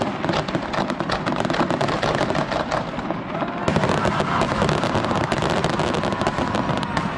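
Fireworks crackling, a dense rapid string of sharp pops, with an abrupt splice in the recording a little past halfway.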